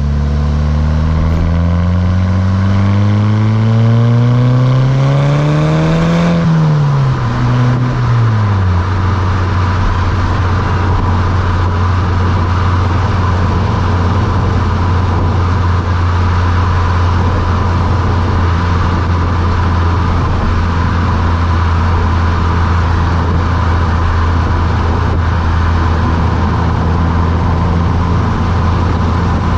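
Mk6 Volkswagen GTI's 2.0-litre turbocharged four-cylinder through its Beluga aftermarket exhaust, accelerating with the pitch rising for about six seconds. The pitch then drops away, briefly rises and falls again, and settles into a steady drone while cruising, with road noise underneath.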